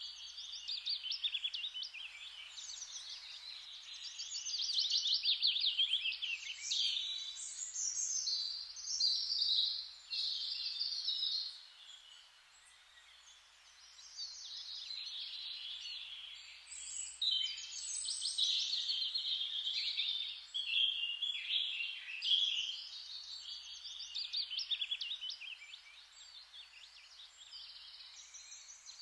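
Several songbirds singing at once, overlapping chirps and rapid trills, with a brief lull about twelve seconds in.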